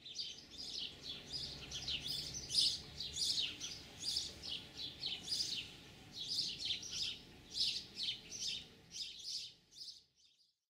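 Small birds chirping and twittering, many short calls overlapping in quick succession, fading out near the end.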